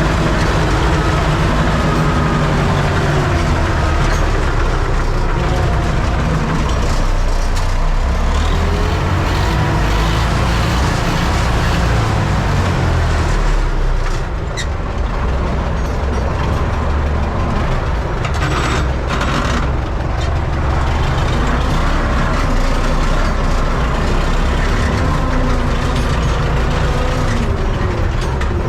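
Universal U650 tractor's four-cylinder diesel engine running steadily under load while pulling a CF7 row cultivator. The level dips briefly about halfway through, with a few short clicks around then.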